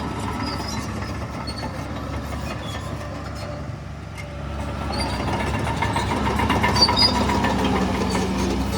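Heavy diesel earthmoving machine running, easing off about four seconds in and then revving up again, with scattered clanks and knocks.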